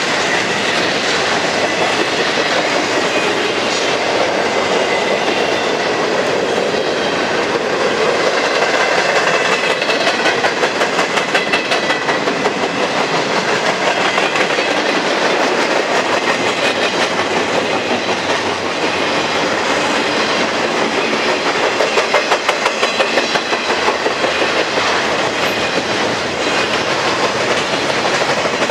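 Intermodal freight train cars rolling past close by: a loud steady rumble of steel wheels on rail, with rhythmic clickety-clack as wheel sets cross the rail joints, most distinct around a third of the way in and again past the middle.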